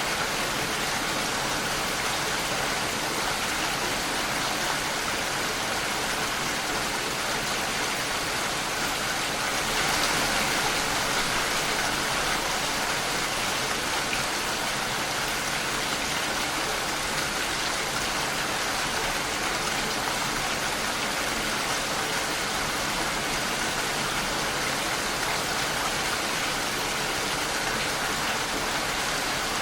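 Steady rain falling in an even hiss, swelling slightly about ten seconds in.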